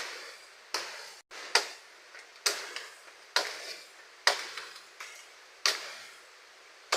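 Repeated sharp chopping blows, about one a second, each dying away quickly, over a faint steady hiss.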